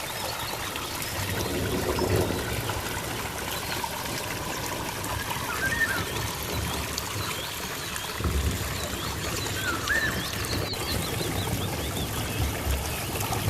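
Water trickling and splashing steadily in a stream, with small birds chirping now and then around the middle.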